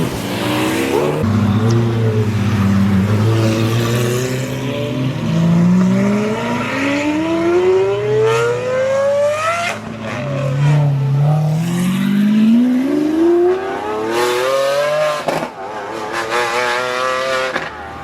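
High-performance car engines accelerating hard, revving up in two long climbing pulls that each drop off sharply, over a lower steady engine note.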